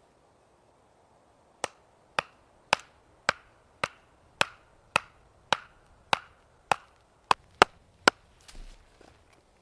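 A blade chopping into wood in a steady rhythm: about thirteen sharp strokes roughly two a second, the last few coming quicker. A brief rustle follows near the end.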